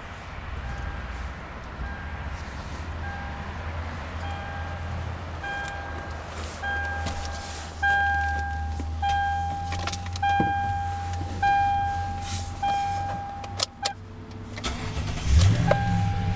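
A truck's dashboard warning chime dings over and over, a little under twice a second, growing louder. After a few clicks, the 2011 Toyota Tundra's engine cranks, catches and settles into a steady idle near the end, with the chime still going.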